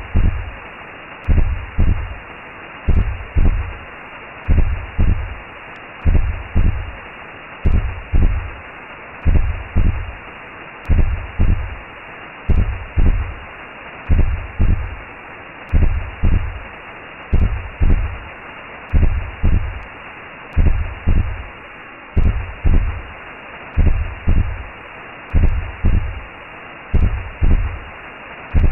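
Recreated womb sound: a heartbeat of paired low thumps, about one beat every second and a half, over a steady whooshing hiss.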